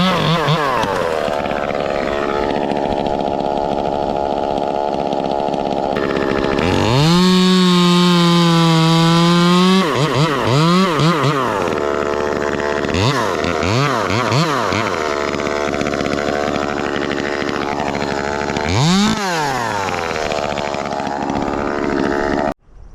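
Ported Echo 2511T top-handle two-stroke chainsaw running, blipped up and down several times and held at full throttle for about three seconds. The engine cuts off suddenly near the end.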